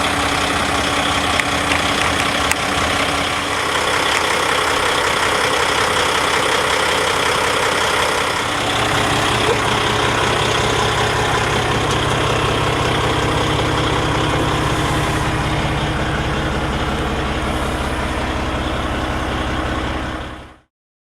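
Peterbilt 389 semi truck's PACCAR MX diesel engine idling steadily. Its low rumble grows stronger about eight seconds in, and the sound cuts off abruptly near the end.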